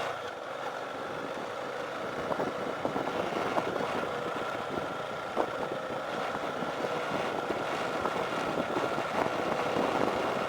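Motorcycle engine running steadily while riding on a gravel dirt road, with many small crackles and knocks from the tyres and bike over loose stones.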